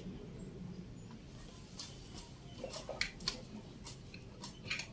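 Light, scattered clicks and ticks of hands handling a Brother BS-40 compact sewing machine, mostly in the second half; the machine's motor is not running.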